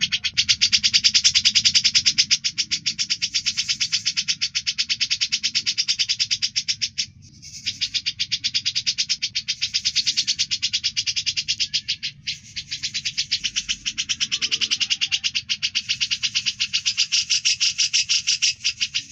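Cucak jenggot (grey-cheeked bulbul) singing a fast, even chatter of about ten notes a second. It breaks off briefly about seven seconds in and again about twelve seconds in.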